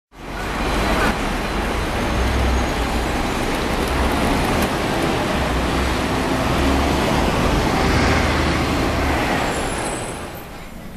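Scania N113 bus running, a steady engine and road rumble that eases off near the end.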